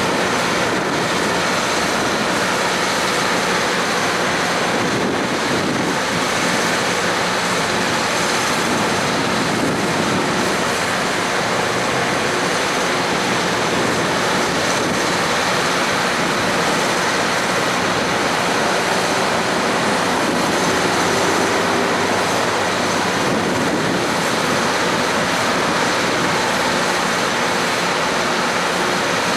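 A train running: a steady, loud rushing noise with a faint hum, holding even throughout.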